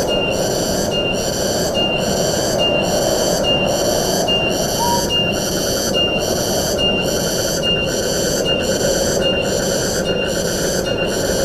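Steady wind rushing through tropical forest, with a high, buzzing insect call pulsing about twice a second over it.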